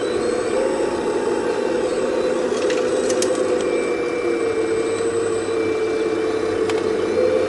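Full-size excavator's diesel engine and hydraulics running steadily under load as it digs, with a steady drone that dips slightly about halfway through and a few short sharp knocks.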